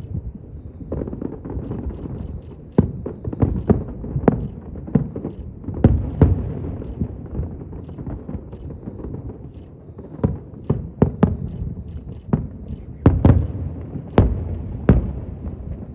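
Aerial fireworks bursting in a display: irregular sharp bangs, several in quick clusters, over a continuous low rumble.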